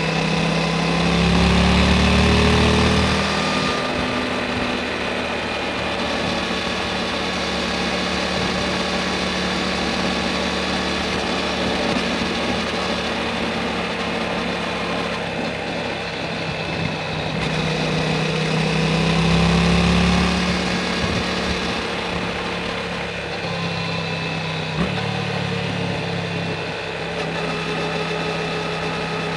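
Yamaha MT-07 parallel-twin engine through an Akrapovic Racing Titan full exhaust, running while riding. The pitch rises and falls with the throttle, with louder spells a couple of seconds in and again past the midpoint.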